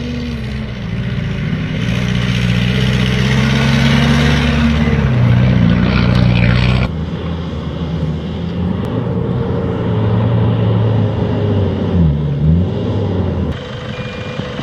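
Rally 4x4 engines, among them a Mitsubishi Pajero's, revving hard while ploughing through deep powdery fesh fesh sand, the pitch rising and falling with the throttle. The sound changes abruptly about seven seconds in to another vehicle, whose revs drop and climb quickly near the end.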